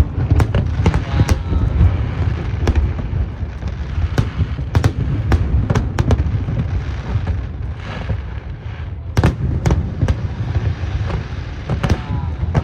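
Aerial fireworks going off: a rapid, irregular run of sharp bangs and crackles over a continuous low rumble of shell bursts.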